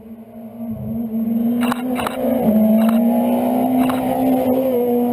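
Rally car engine accelerating hard, its note swelling up from a low level and dropping in pitch twice as it changes up a gear. Several sharp cracks come through the engine note in the middle.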